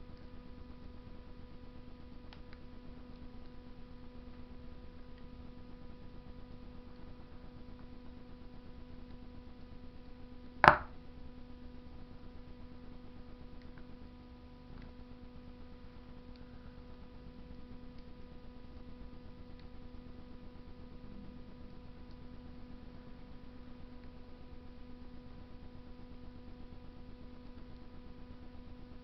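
Wood fire burning in a Russian masonry stove: a few faint ticks and one sharp, loud pop about ten seconds in, over a steady hum.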